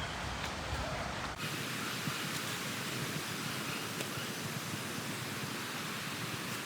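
Steady, even outdoor background hiss with no distinct events; about a second and a half in it turns thinner and brighter, losing its low rumble.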